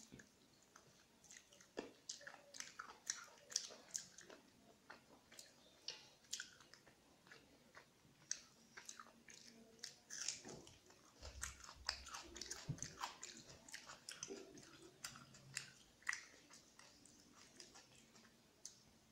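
A person chewing and biting a mouthful of rice and chicken curry eaten by hand, heard close up as many short, wet mouth clicks.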